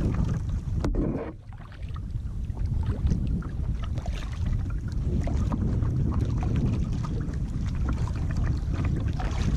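Wind buffeting the action camera's microphone as a steady low rumble, over the small splashes and drips of kayak paddles working the water.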